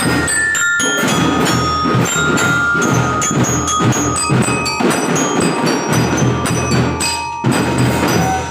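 A children's drum band playing a march: rapid drum strokes under a ringing glockenspiel-type bell lyra melody. The music cuts off right at the end.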